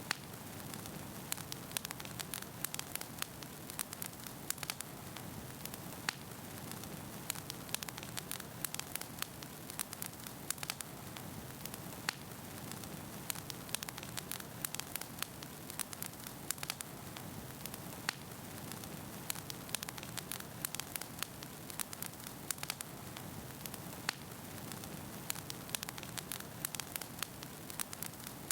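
Wood fire burning in a fireplace, with logs crackling and popping in many sharp, irregular snaps over a steady low rush of flame.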